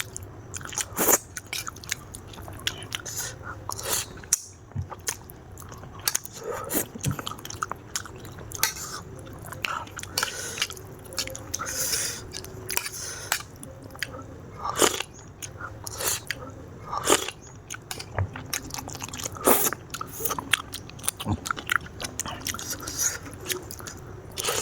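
Close-miked eating sounds of a person chewing and biting through spicy instant noodles with chewy kikil (beef skin). Many sharp, irregular mouth clicks and smacks come throughout.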